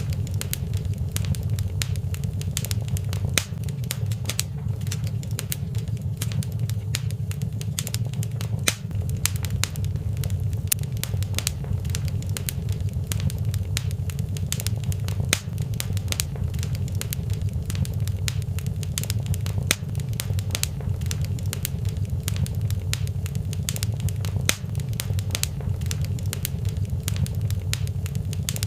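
Wood fire in a fireplace crackling steadily, with many quick sharp pops and snaps over a constant low rumble.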